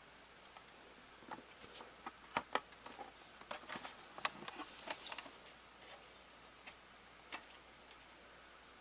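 Light clicks and taps of a VHS cassette being handled during a repair of its snapped tape: a couple of dozen irregular sharp clicks, thickest through the middle, with a few stray ones near the end.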